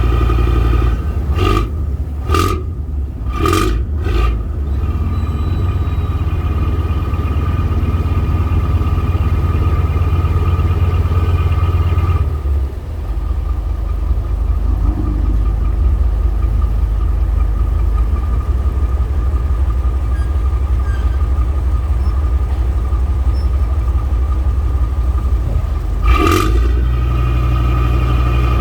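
Tugboat engine running steadily under load while it pushes a fishing boat toward the pier, with a few knocks in the first seconds. The engine note drops about halfway through and rises again near the end, as the throttle is eased and opened.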